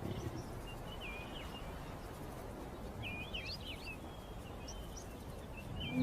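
Natural outdoor ambience: small clusters of short, quick bird chirps, three times, over a steady low background rumble.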